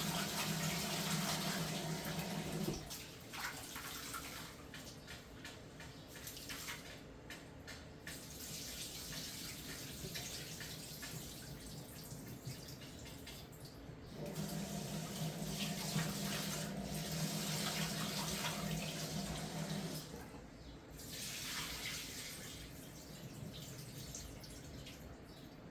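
Kitchen tap running into a sink as rice is washed. The water flows at the start and stops about 3 s in, then flows again from about 14 s to 20 s. In between, quieter sloshing of water as the rice is rinsed.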